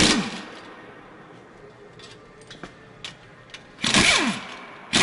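Air-powered wrench run in three short bursts while unbolting, each winding down with a falling whine after the trigger is let go, with small metal clicks of sockets and bolts in between.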